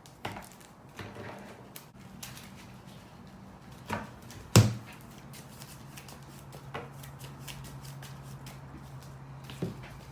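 Cardfight!! Vanguard trading cards being handled and shuffled on a table: soft rustles and light taps, with one sharp click about halfway through. A low steady hum sets in with that click and carries on to the end.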